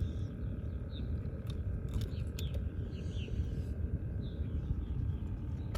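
Faint bird chirps, short calls repeating several times, over a steady low rumble.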